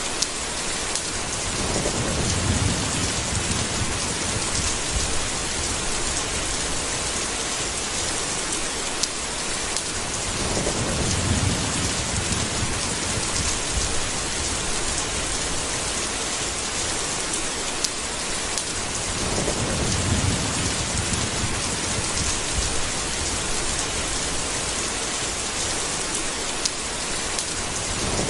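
Steady rain hissing, with three low rumbles of thunder about nine seconds apart and a fourth starting right at the end. A few sharp drip-like ticks fall between them.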